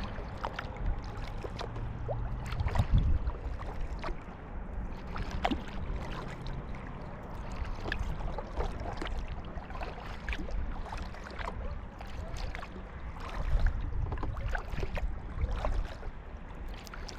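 Kayak paddling: water splashing and dripping from the paddle with many small drips and plinks throughout, over a low rumble of moving water, louder about three seconds in and again near the end.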